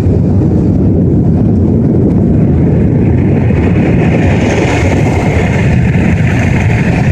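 Car wash blower dryers blasting air over the car, a loud steady rush heard from inside the car. A higher hiss joins in about two and a half seconds in.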